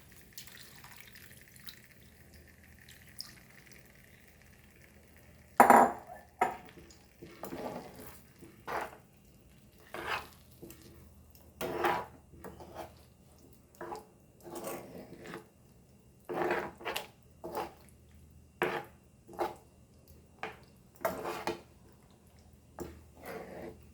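A spoon stirring a pan of curry gravy, scraping and knocking against the pan roughly once a second. Before that, for the first five seconds or so, there is only a faint steady hiss.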